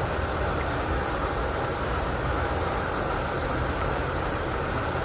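Welding arc from a VEVOR MIG-130 3-in-1 welder crackling steadily as a weld is run.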